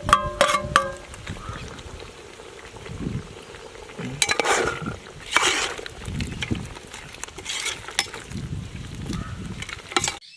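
A metal ladle stirring chicken gravy in a cooking pot, with a few ringing taps against the metal in the first second, then uneven scraping sweeps as the fresh coriander leaves are stirred in.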